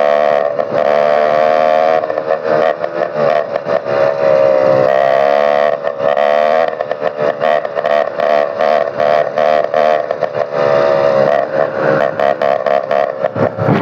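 Motorized bicycle engine running with no muffler, only the bare exhaust pipe, giving a loud buzzing exhaust note. About halfway through it turns choppy and stuttering for a few seconds, then evens out again.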